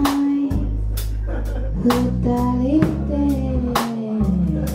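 A rock band playing a song, with a drum kit keeping a steady beat under bass and guitar and a gliding melody line.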